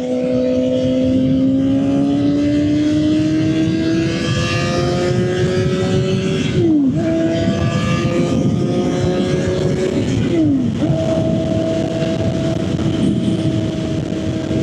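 Suzuki GSX-R750's inline-four engine pulling under acceleration, rising in pitch, with two quick upshifts, about halfway and about three-quarters through, after which it holds a steady pitch.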